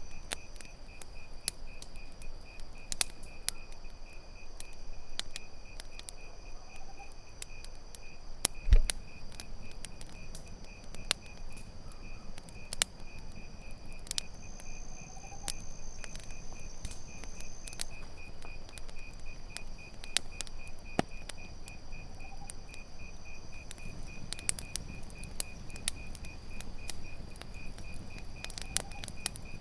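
Campfire crackling with scattered sharp pops, one much louder pop with a thud a little under nine seconds in, over steady chirping of crickets. A faint short rising call recurs about every seven seconds.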